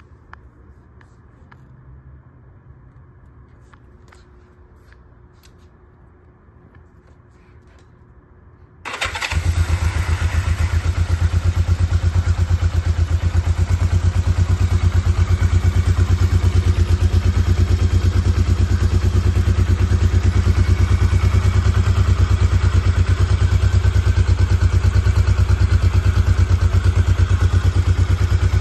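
A few faint clicks, then about nine seconds in the 1970 Honda CL350's air-cooled four-stroke parallel-twin engine starts from cold and runs steadily.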